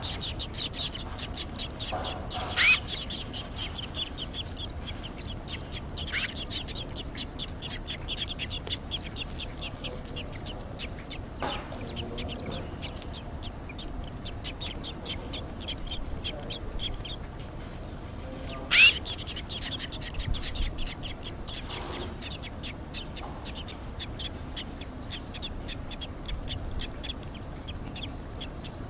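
Barn swallow nestlings begging with rapid, high-pitched chirping in several bursts, the loudest at the start and about two-thirds through, some opening with a sharp rising note: the chicks calling to be fed.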